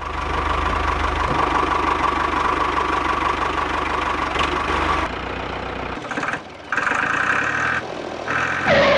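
An engine running steadily with a low rumble for about five seconds, then changing to a lighter sound broken into short on-off spells, with a rising glide near the end.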